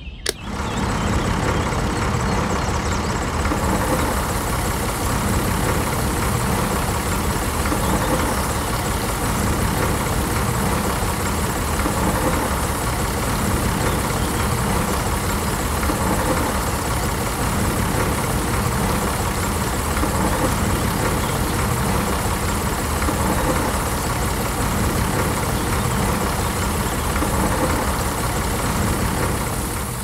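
A rocker switch clicks on, then the homemade miniature tractor's small electric motor runs steadily.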